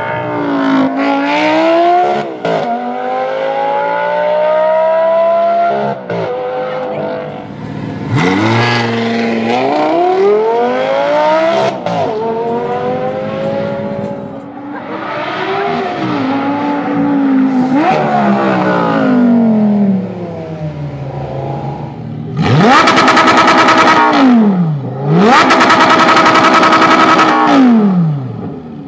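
Lamborghini Gallardo LP570-4 Spyder Performante's V10 through a Larini sports exhaust, accelerating through the gears: the pitch climbs in repeated pulls with a sudden drop at each shift. Near the end come two louder stretches held at steady high revs, each falling away as the throttle is lifted.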